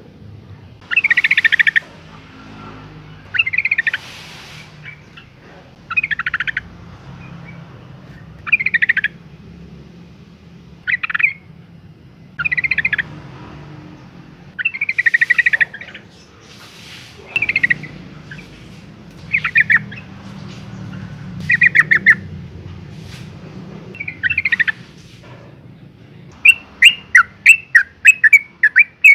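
Female yellow-vented bulbul giving short, bubbly calls about every two seconds, then near the end breaking into a fast run of chattering notes, several a second. It is a female's call, used as playback to provoke male bulbuls into singing.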